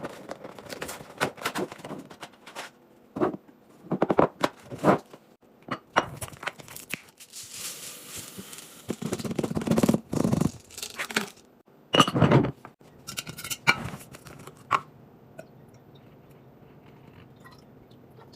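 Household items being handled while restocking: packaging rustling and containers tapping and clattering in short, separate bursts, with a longer rustle or scrape about eight seconds in. It dies down to quiet room tone after about fifteen seconds.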